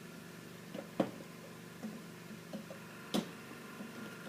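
Scattered light clicks and knocks of plastic printer parts being handled and pried apart, with two sharper knocks about a second in and about three seconds in, over a faint steady hum.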